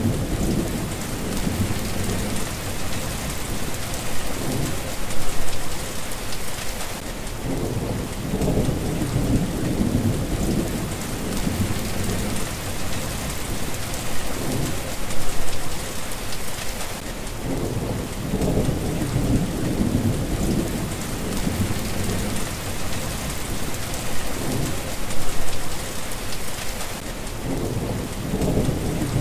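Steady rain falling, with low rolling thunder that swells and fades, rising to louder peaks about every ten seconds.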